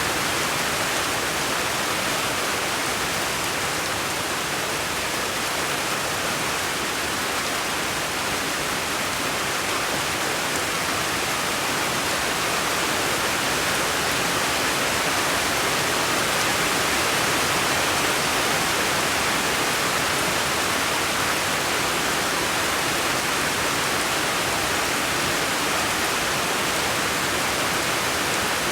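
Steady, even rushing noise that does not change, of the sort heard from falling water or heavy rain, with no distinct drops, splashes or other events.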